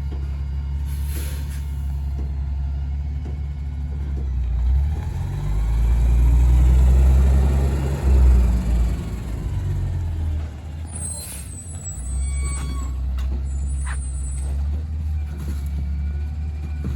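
Diesel engine of a Kenworth rear-loader garbage truck with a Heil packer body, running steadily, then rising in speed for a few seconds and dropping back, as it does when the packer works on bulk trash. Near the middle there are a few high, short squeals.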